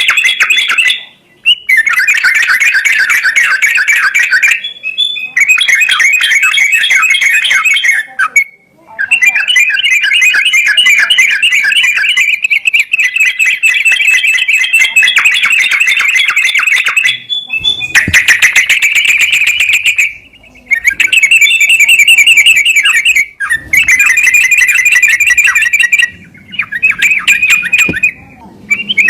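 Bird song: long runs of very fast, chattering trills of high repeated notes, each run lasting a few seconds and separated by brief pauses.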